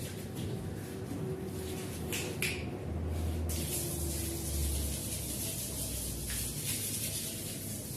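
Water spraying onto a rug in a steady hiss over the low hum of a cleaning machine's motor; the hiss grows stronger about three and a half seconds in.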